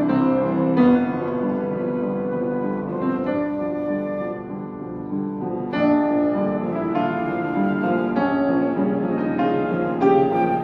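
Piano playing a slow instrumental passage, with sustained chords struck every second or two.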